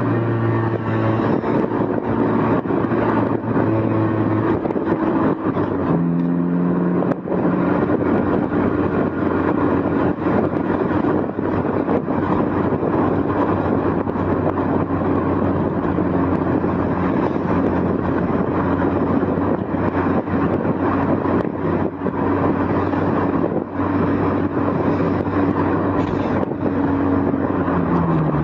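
Honda S2000 engine heard from the passenger seat with the roof open, its note stepping up and down with throttle and gear changes over wind and road noise. The loosely placed recorder clicks and rattles on the seat.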